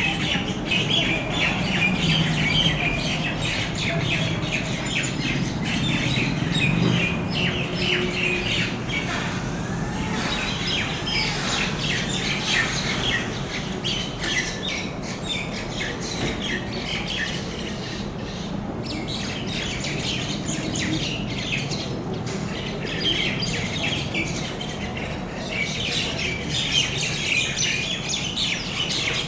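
A flock of birds squawking and calling over one another without pause: a dense chorus of short, harsh calls, as birds give when mobbing another bird.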